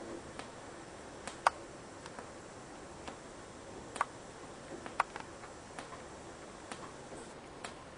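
Rainwater leaking into a house and dripping, the drops landing at irregular intervals as short ticks, three of them loud plinks among many faint ones.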